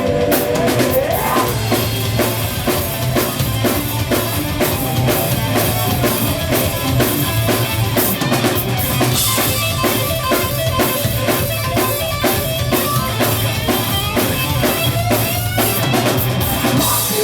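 Rock band playing live, loud and continuous: a drum kit pounding steadily over bass and guitar in an instrumental stretch without singing.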